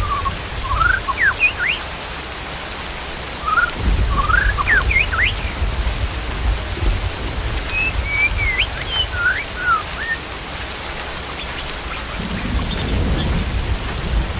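Steady rain with small birds chirping over it: short, quick rising chirps in three bursts during the first ten seconds, then a few high ticks near the end. A low rumble comes and goes underneath.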